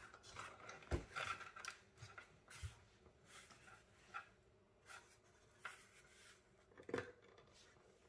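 Faint handling noises while working on desktop PC parts: scattered light clicks and rubbing, with two louder knocks, one about a second in and one near the end.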